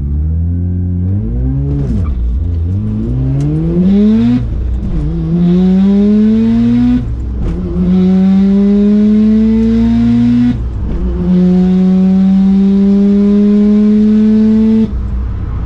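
Single-turbo Mazda RX-7 FD's rotary engine at full throttle on a quarter-mile drag run. The pitch climbs through four gears with three quick upshifts, then the engine lifts off sharply near the end.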